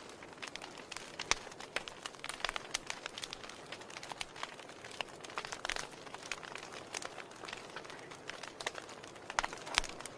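Wood fire crackling in a fireplace: irregular sharp pops and snaps over a soft steady hiss, with a louder pop about a second in and a few more near the end.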